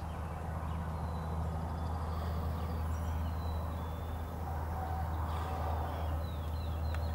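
Faint birdsong from the woods: scattered short, thin chirps and whistled notes, some falling in pitch, over a steady low rumble.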